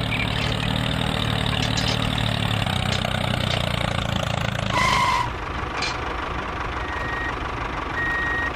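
A motor running steadily. A single short beep comes about five seconds in, like a vehicle's reversing beeper.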